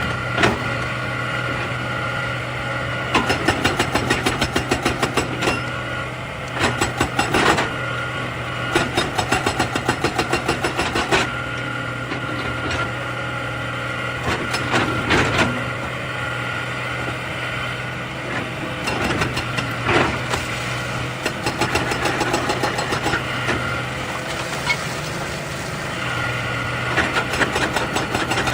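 Excavator's diesel engine running steadily, with sharp knocks and several runs of rapid clanking over it.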